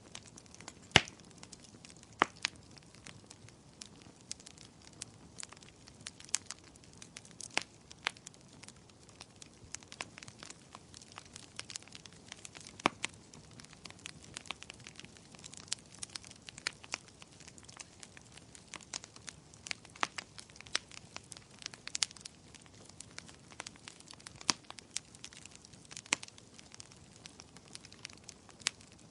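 Firewood burning in a fireplace: irregular sharp crackles and pops over a low steady hiss of the flames, the loudest pop about a second in.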